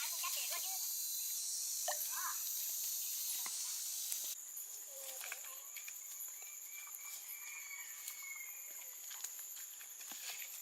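Steady high-pitched insect chirring, which changes abruptly about four seconds in to a thinner, steadier high whine, with a few short faint calls and light taps over it.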